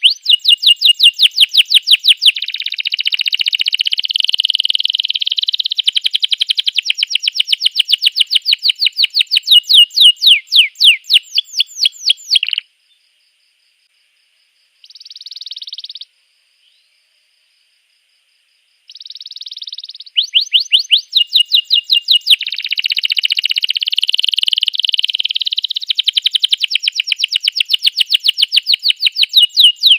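Domestic canary singing: long runs of rapid, high-pitched trills, each a fast string of repeated notes. The song breaks off a little before halfway for about six seconds, with one short burst in the pause, then resumes.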